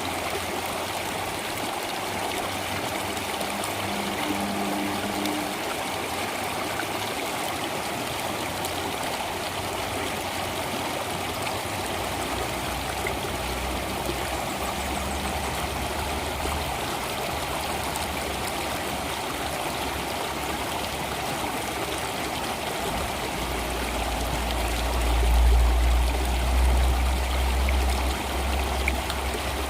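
Stream water flowing steadily. A deep low rumble comes in about halfway and swells loudest in the last few seconds.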